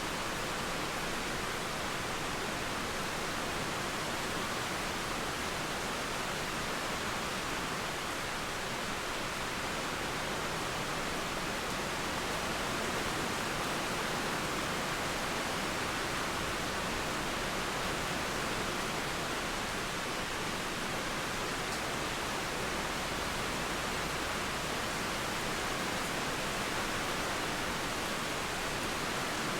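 Steady rain falling with a flowing river, an even, unbroken hiss.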